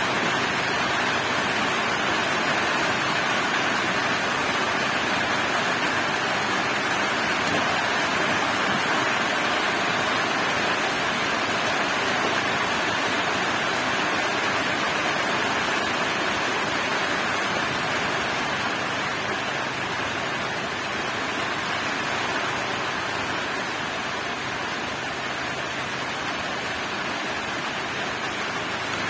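Heavy rain pouring down in a steady, dense hiss, easing slightly in the last third.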